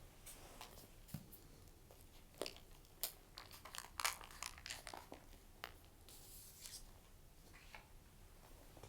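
Faint paper rustling and crinkling with scattered small clicks and taps, busiest and loudest in the middle.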